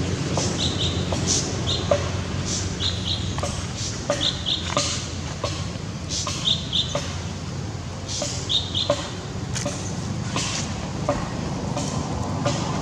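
A bird calling a short, high double note over and over, about every second or two, over a steady low outdoor rumble.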